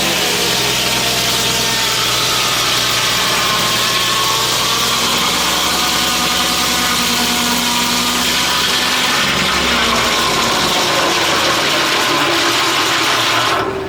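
Foley Belsaw M-14 circle sawmill running steadily under engine power.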